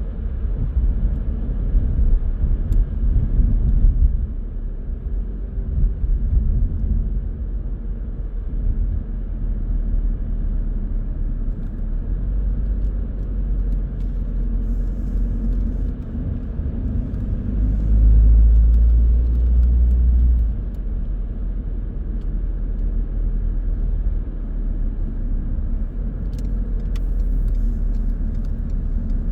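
A car driving: steady low engine and road rumble. About two thirds of the way in, the rumble grows louder for a couple of seconds, then settles back.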